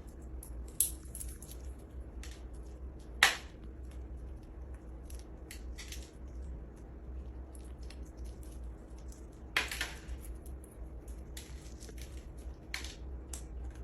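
A parrot cracking and crunching a pistachio shell with its beak: irregular sharp cracks and nibbling clicks, the loudest about three seconds in and again near ten seconds in.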